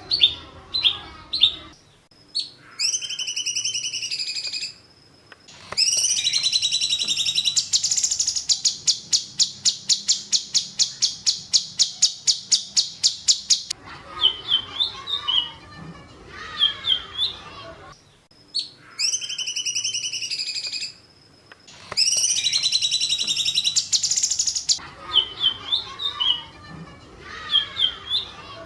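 Recorded songbird song played as masteran, a training track for cage birds: bursts of sharp high chirps and whistles, then a long fast trill of about seven notes a second. The same run of phrases comes round again about halfway through, as in a looped recording.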